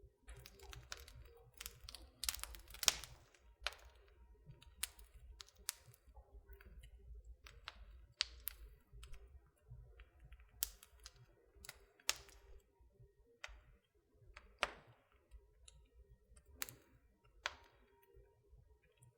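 Wood fire in a fireplace crackling, with irregular sharp pops and snaps over a faint low rumble; the loudest cluster of snaps comes a few seconds in.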